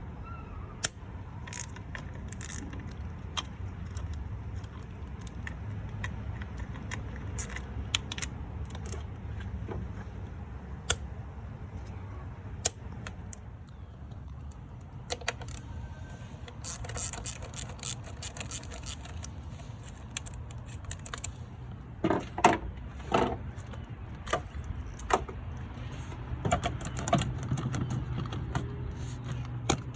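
Hand tools loosening 10 mm valve cover bolts on an Infiniti G35 engine: scattered metallic clicks and clinks, with a quick run of ratcheting ticks about halfway through, over a steady low rumble.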